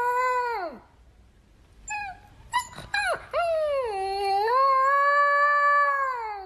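A dog howling: one long howl that drops away, a short pause, a few short yips, then a second long howl that dips, holds and sinks at the end.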